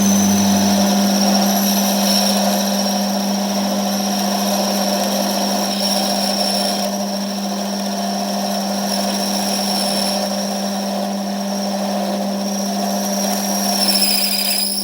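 A power tool running steadily with a high whine over a low hum, stopping suddenly at the end.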